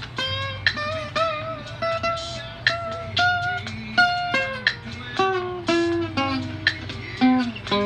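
Guitar playing a melody of plucked single notes, a new note about every third of a second, some with a slight wavering bend.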